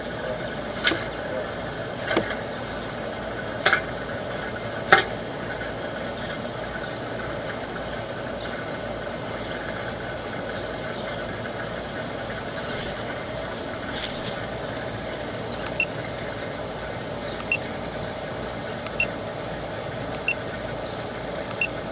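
Engine idling steadily, with a few sharp clicks in the first five seconds. In the second half, a short high chirp sounds about every second and a half.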